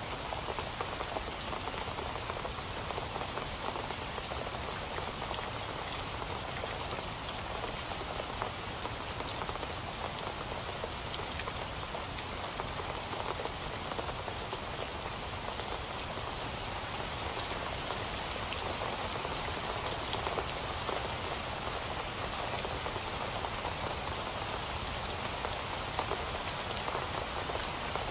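Steady rain falling on a surface, a continuous hiss with many small drops pattering.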